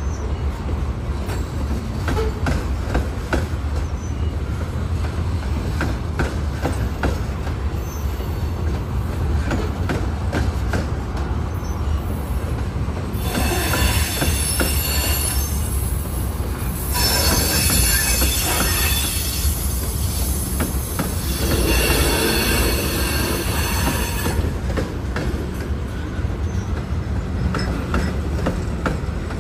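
Freight cars of a manifest train, covered hoppers and tank cars, rolling past with a steady rumble of wheels and irregular clicking over the rails. About halfway through, high-pitched wheel squeal comes in for several seconds, loudest near the middle, then dies away.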